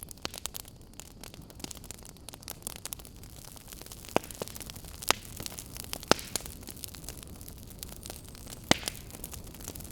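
Wood fire burning in a fireplace: a steady low rumble and hiss of the flames with constant small crackles, and a few sharp louder pops about four, five, six and nearly nine seconds in.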